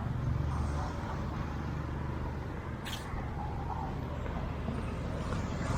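Steady low rumble of passing road traffic, with a short sharp click about three seconds in.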